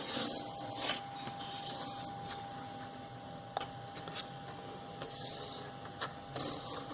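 Pencil of a drawing compass scratching across thin cardboard as a circle is drawn, with a few light clicks and taps.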